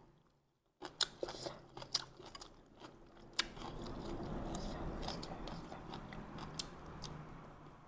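A person chewing and eating a bowl of bún riêu noodle soup, with sharp clicks and crunches. The eating starts after a brief silence and turns into a steadier noisy sound about halfway through.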